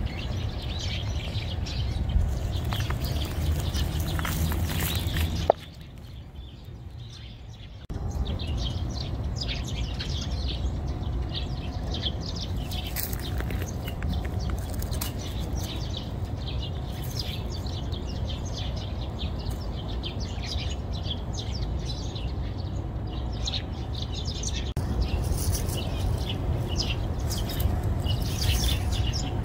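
Small birds chirping again and again over a steady low rumble of outdoor noise, which drops away briefly a few seconds in.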